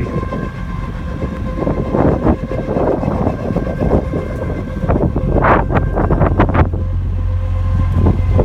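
Wind buffeting the microphone in a snowstorm over a steady machine hum with several fixed tones, with a cluster of irregular scraping or crunching bursts about five to six seconds in.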